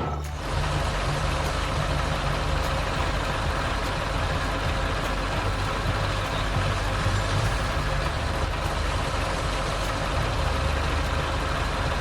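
Excavator's diesel engine running steadily: a low engine drone with a dense mechanical rush above it.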